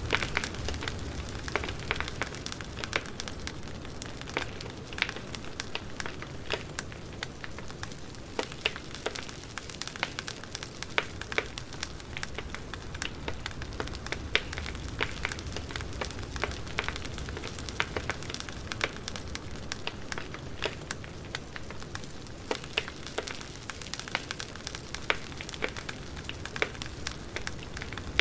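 Campfire crackling: frequent irregular sharp pops and snaps over a steady hiss of the burning fire.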